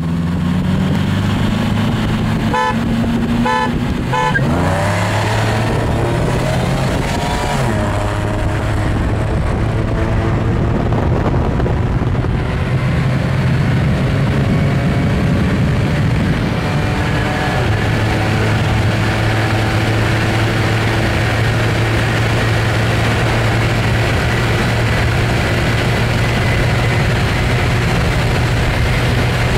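Three short car-horn toots about 2.5 to 4 seconds in, the signal that starts a roll race. Then a car engine pulls hard under full throttle, heard from inside the cabin. Its pitch drops at gear changes about 4.5 and 7.5 seconds in, and it then settles into a steady drone at speed.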